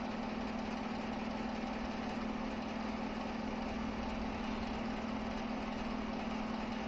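Steady machine hum with one constant low tone and an even hiss above it.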